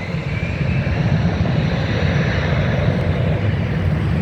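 Jet airliner on approach, a Boeing 787-8: loud, steady engine noise with a faint rising whine near the start, over a choppy low rumble of wind on the microphone.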